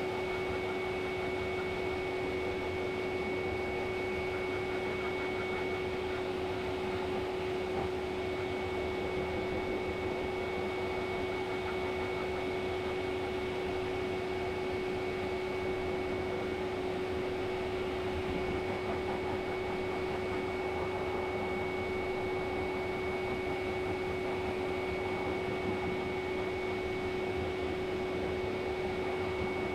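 An electric blower, such as a pet-grooming dryer, running steadily: an even whir with a constant hum.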